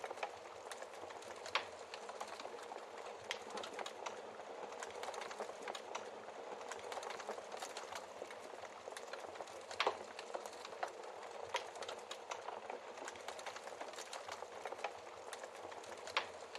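Wood fire crackling in a fireplace, a steady patter of small snaps with a few sharper log pops, one about a second and a half in, one near the middle and one near the end.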